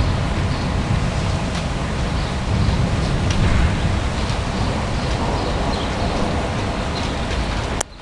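Steady noise of rain and wind in a thunderstorm, heaviest in the low end, with faint scattered ticks above it; it cuts out briefly near the end.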